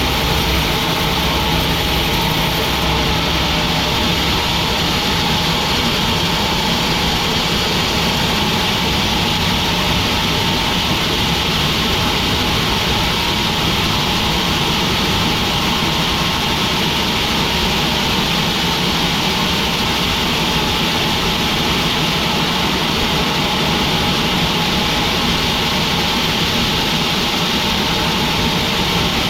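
Sawmill machinery running steadily: a constant engine drone with a broad hiss over it, holding the same level and pitch throughout.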